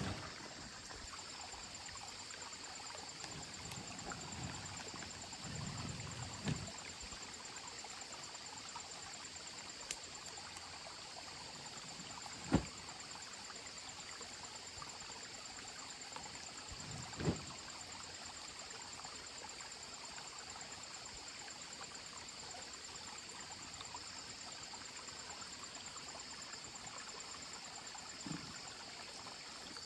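Steady high chirring of insects, with a few single sharp knocks spread through.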